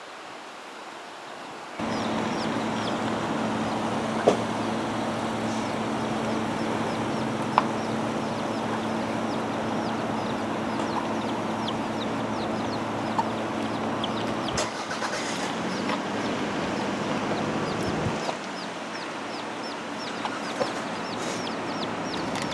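Chickens clucking, with many short, high falling peeps repeating over a steady low hum. The hum starts suddenly about two seconds in and drops away about eighteen seconds in.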